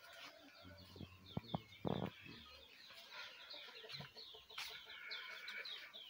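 Birds chirping, with many short, high notes repeating, and a few sharp knocks between about one and a half and two seconds in.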